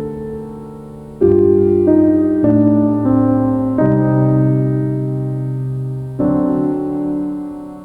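Background music: a slow, gentle piano piece, with chords struck about every second or two and left to ring and fade.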